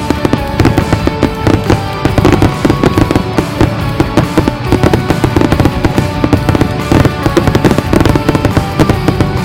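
Fireworks going off in a rapid, continuous run of sharp bangs and crackles, with music playing underneath.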